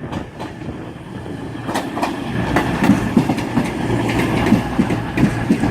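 Class 221 Super Voyager diesel-electric multiple unit pulling into the platform, its wheels clicking and knocking over the rail joints and getting louder as it nears. A steady low engine hum comes in about four seconds in.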